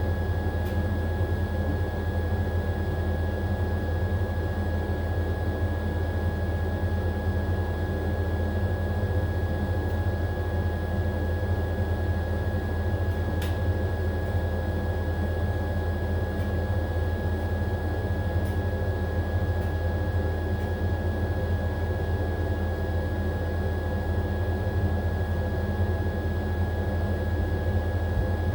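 AQUA AQW-DX12M front-loading drum washing machine running its spin cycle, a steady low hum with a constant high whine and a few faint ticks.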